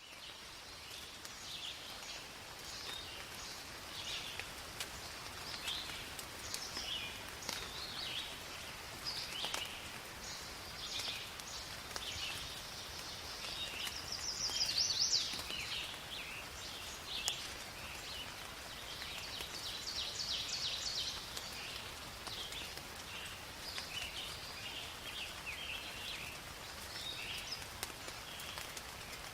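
Forest ambience of many songbirds chirping and calling over one another, with one louder burst of song about halfway, over a steady soft hiss of rain.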